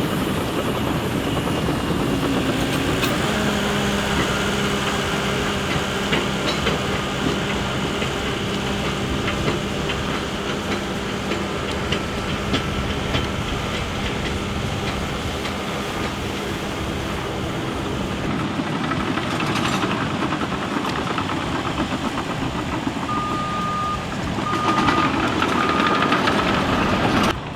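Heavy diesel track-prep machinery running steadily with a low, even engine note. Near the end a reversing alarm beeps three times.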